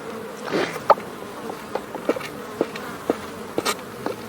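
Buffalo calf suckling from its mother: short, sharp smacking clicks at irregular intervals, over a steady insect buzz.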